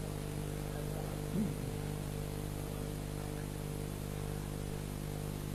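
Steady electrical hum with hiss, as from a sound system's amplification, with a brief faint voice about a second and a half in.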